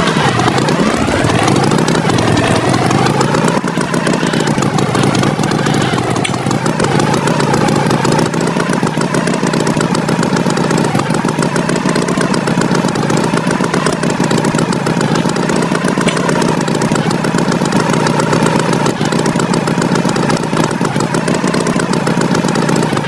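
Motor engine running loud and continuous, its pitch rising over the first few seconds and then holding steady with a slight waver.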